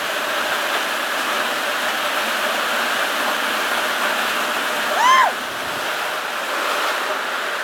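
Heavy rain pouring down steadily in a storm, a continuous even rush. About five seconds in, a short high call with a rising-then-falling pitch sounds once over it.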